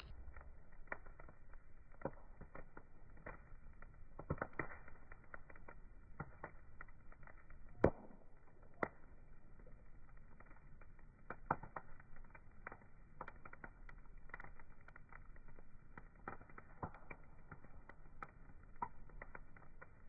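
Wood fire crackling, with irregular sharp pops over a low hiss; the loudest pop comes about eight seconds in. The sound is muffled, with no high treble.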